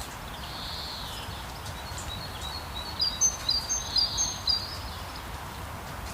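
Steady hiss of rain with birds singing over it; about three seconds in, a bird gives a quick run of about five short, high chirped phrases.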